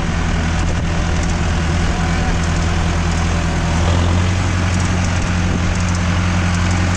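Mahindra tractor's diesel engine running steadily as the tractor is driven in first gear, a low drone that swells slightly about halfway through.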